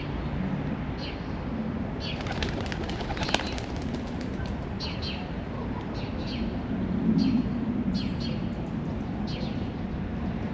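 Birds chirping, short falling chirps repeated about once a second, with a brief rapid flurry of clicks about two to three seconds in.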